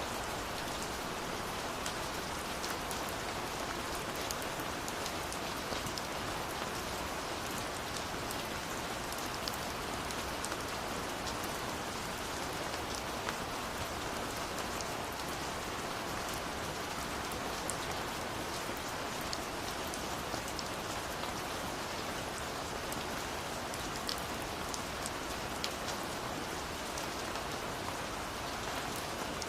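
A steady rush of falling water from a waterfall, with the small, sharp snaps and pops of a crackling wood fire scattered throughout.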